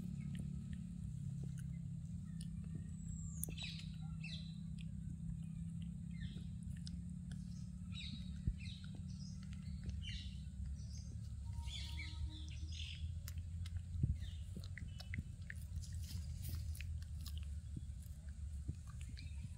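Small birds chirping in short runs several times, over a steady low rumble, with scattered small clicks and rustles.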